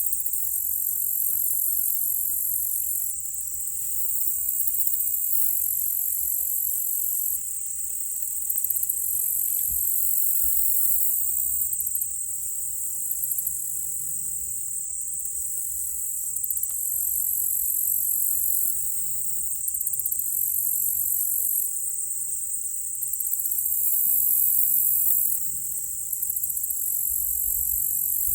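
A high-pitched, continuous chorus of insects such as crickets, buzzing rapidly and swelling and easing every few seconds.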